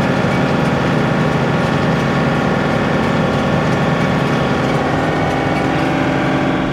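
Tractor engine running steadily with mechanical noise from the machine.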